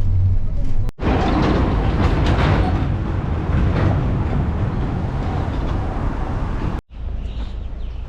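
A vehicle's running noise: a steady low rumble with a rattling hiss, cut off abruptly twice by edits, about a second in and near the end.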